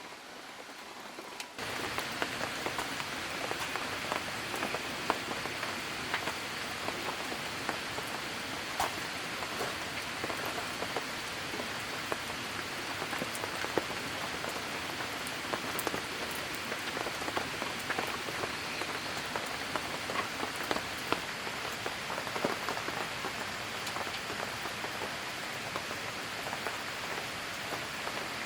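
Steady rain falling, with many separate drops tapping sharply. It gets suddenly louder about a second and a half in, then holds steady.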